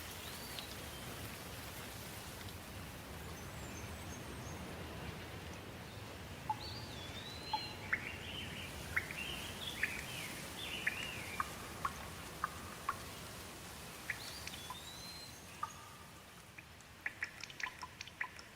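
Steady rainfall with birds calling through it: a run of short chirps and whistled upward and downward glides in the middle. Near the end the rain eases slightly and individual drips tick out.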